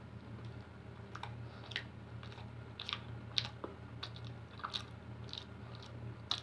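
A person biting into and chewing a soft bread roll close to the microphone, with irregular small mouth clicks and smacks.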